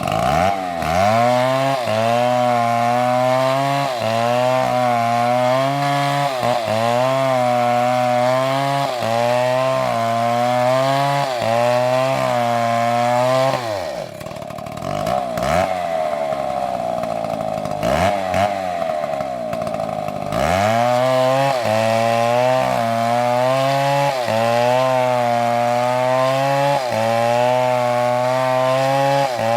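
Chainsaw cutting into a big tree, the engine pitch dipping and recovering about every second and a half as the chain bites. Near the middle it runs steadily out of the cut for about six seconds, then goes back to cutting with the same dips.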